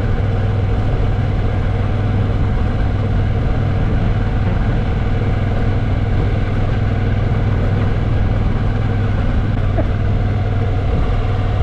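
Moto Guzzi V85TT's air-cooled transverse V-twin engine running at a steady pace while climbing a mountain pass, heard from the rider's position with steady wind and road noise.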